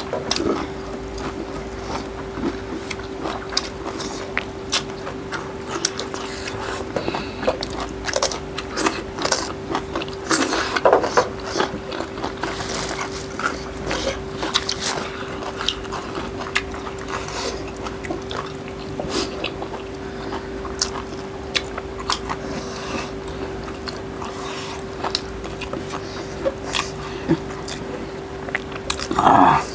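Close-up eating sounds of two people eating chicken and rice by hand: chewing, biting and wet lip-smacking clicks, with a steady hum underneath.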